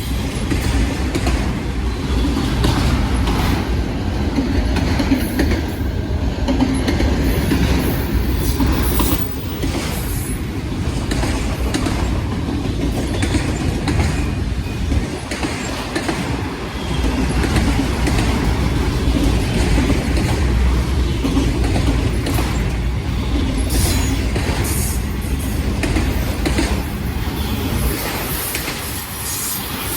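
Long freight train of mixed freight cars and autoracks rolling steadily past: a continuous low rumble with irregular clicks and clatter of wheels over the rail joints.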